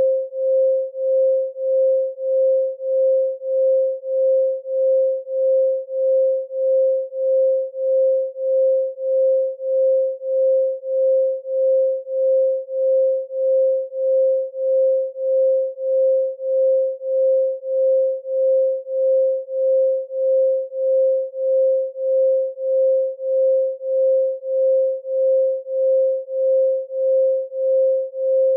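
Electronic 528 Hz pure sine tone, swelling and fading in an even pulse about one and a half times a second.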